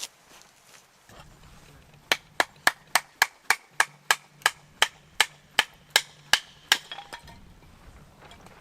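A quick run of about fifteen sharp hammer strikes, roughly three a second, each with a short metallic ring.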